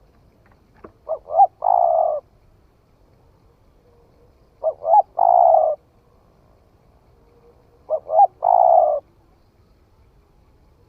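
Spotted dove cooing: three phrases about three and a half seconds apart, each two short notes followed by one longer coo.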